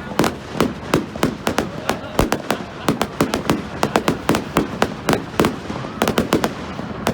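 Fireworks going off in a dense barrage, several sharp bangs a second with no pause.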